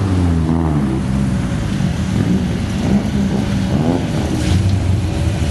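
Drag cars' engines idling with short throttle blips, the pitch rising and falling over a steady low rumble while they wait to launch.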